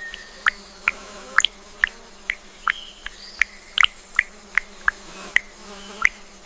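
A series of short, sharp animal chirps, coming irregularly about two to three a second over a faint steady background.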